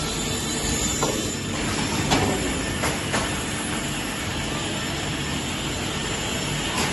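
Twin-shaft vertical multi-rip circular saw machine running with its 300 mm blades, a steady mechanical noise with a few sharp knocks about one, two and three seconds in.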